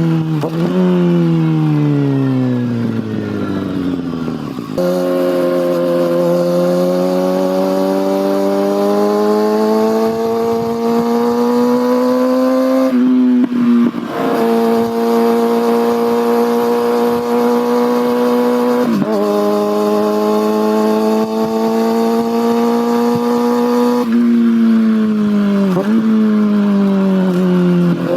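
Kawasaki ZX-6R inline-four engine and exhaust under way: the revs fall at first, then climb slowly through the gears with short breaks at the gear changes, hold steady, and fall again near the end with quick blips on the downshifts.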